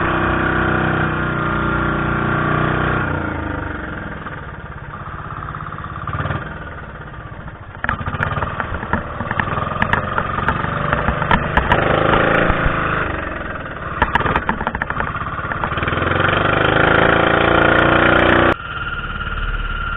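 Boat engine running, its pitch rising and falling in the middle with scattered clicks and knocks, and the sound changing abruptly near the end.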